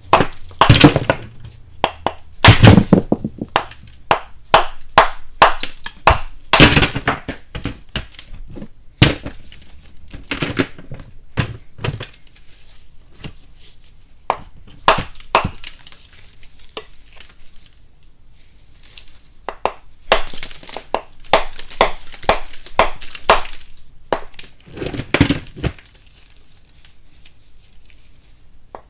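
Lumps of chalk being cracked and broken apart: an irregular run of sharp snaps and crumbling cracks, thinning out to a quieter stretch about halfway through before picking up again.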